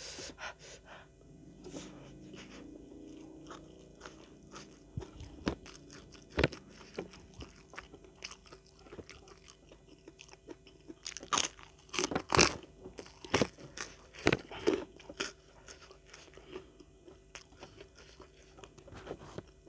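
Close-miked eating sounds: wet chewing of rice and crunching bites of raw vegetables, with a run of sharp, loud crunches about halfway through.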